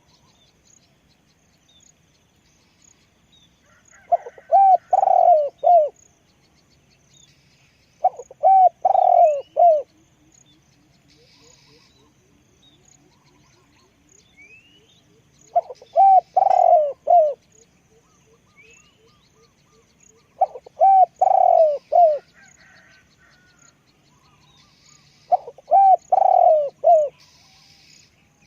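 Spotted dove cooing: five phrases of several low coos each, coming about every four to five seconds. Faint chirps of other small birds sound between the phrases.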